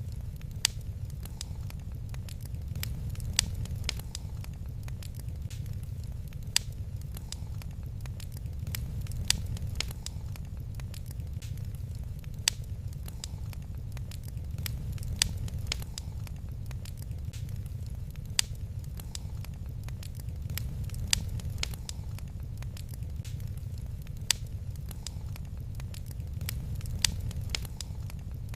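Wood fire in a fireplace crackling, with a sharp pop every two or three seconds over a steady low rumble.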